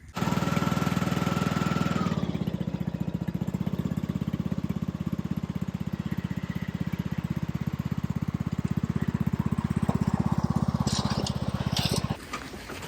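An engine running steadily with an even, rapid firing beat, stopping abruptly near the end.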